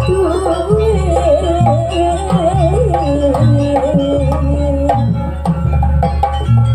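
Live East Javanese jaranan ensemble music: hand drums playing a busy rhythm over a repeating low beat, with a wavering melodic line above.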